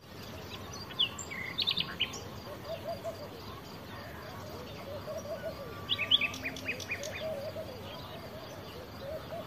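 Dawn birdsong from several birds: quick high chirps and trills in two flurries, about a second in and again about six seconds in, over a steady run of lower repeated calls.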